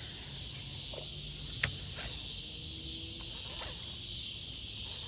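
Steady high-pitched insect chorus, with a single sharp click about a second and a half in.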